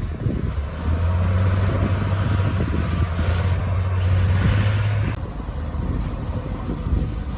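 Bulldozer's diesel engine running, pulling harder from about a second in and dropping back abruptly at about five seconds.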